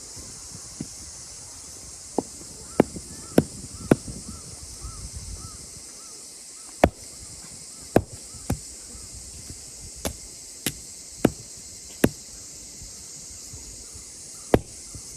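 Irregular sharp knocks of firewood being chopped or split with a blade, about a dozen strikes spaced roughly half a second to two seconds apart, over a steady chorus of night insects.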